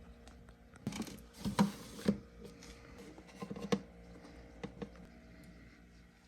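A scatter of short clicks, knocks and scrapes of objects being handled, grouped about a second in and again around three and a half to five seconds in.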